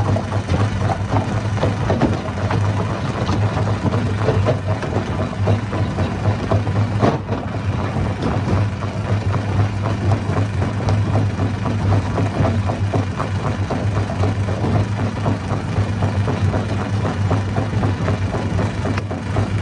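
Hammer stone crusher running: a steady low engine drone under a dense, irregular clatter of rock being broken and knocked about inside the machine.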